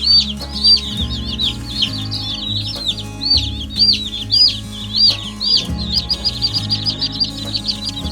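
A box of day-old Cornish cross broiler chicks peeping: many quick high chirps overlapping without pause. Background music with sustained low notes plays underneath.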